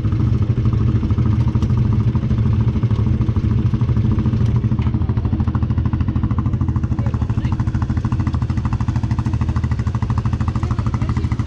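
Can-Am 1000 side-by-side's V-twin engine running steadily at a low, unchanging speed, the vehicle stuck while its transmission is missing gears.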